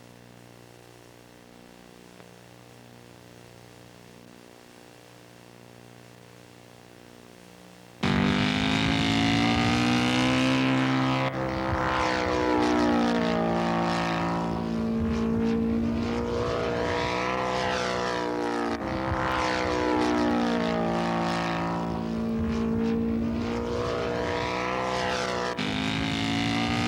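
Faint steady engine hum, then about eight seconds in, loud radio-controlled model airplane engines flying past. The pitch rises and falls with each pass, and the sound jumps abruptly a few times from one pass to the next.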